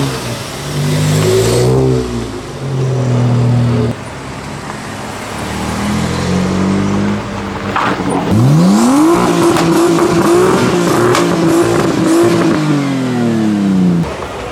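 Modified car engines revving: short blips in the first few seconds, then one engine is revved up steeply about eight seconds in, held at high revs for several seconds, and let fall back near the end, with a few sharp cracks.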